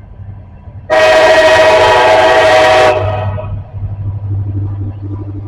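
Locomotive air horn sounding one long blast of about two seconds, several notes at once in a chord, over the low steady rumble of the train.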